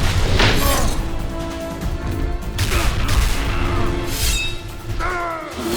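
Background action music with several booming impact and whoosh effects, and a falling glide in pitch near the end.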